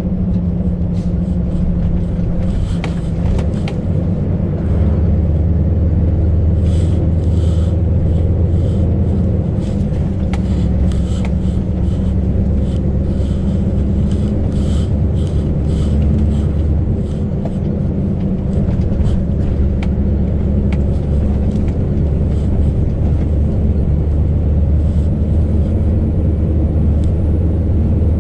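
Scania V8 truck engine running steadily under way, with many short sharp clicks and rattles over most of the stretch.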